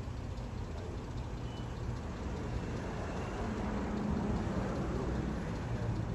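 Steady, fairly loud machinery noise from a car wash, with a low hum swelling in the middle.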